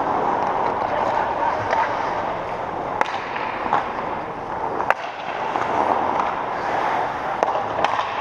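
Rink game ambience: a steady din of distant voices and play, broken by sharp cracks of impact, the loudest about five seconds in and a couple more near the end.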